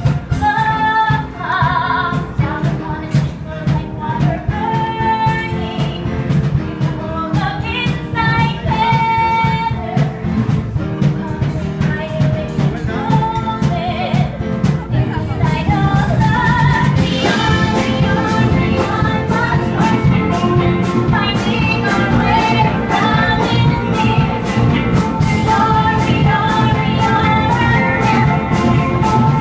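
A woman singing a 1980s-style pop-rock song over a steady drum beat and band accompaniment. The accompaniment grows fuller and a little louder about halfway through.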